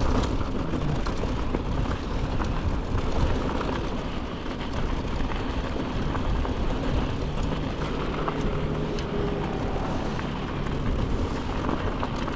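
Mountain bike rolling down a dirt trail: a steady rush of wind and tyre noise, with scattered clicks and rattles from the bike over rough ground.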